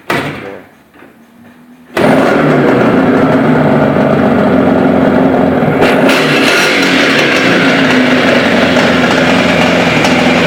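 IZh Jupiter-4 motorcycle's two-stroke twin-cylinder engine starting: a short burst that dies away, then it catches about two seconds in and runs steadily and loudly.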